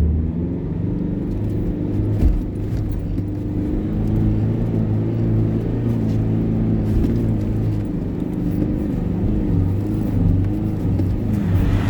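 4WD engine labouring under load as it climbs a soft sand dune, held at around 3,000 rpm, with the revs rising and falling.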